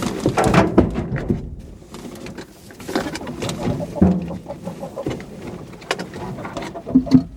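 Domestic hens clucking in short low calls in the coop, with rustling and light knocks in between.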